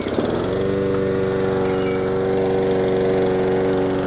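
Small tractor engine coming up to speed in the first moment, then running steadily at a constant speed.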